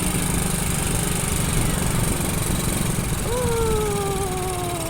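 Motorcycle engine running steadily under way, with road and wind noise. About three seconds in, a drawn-out pitched tone starts and slowly falls in pitch.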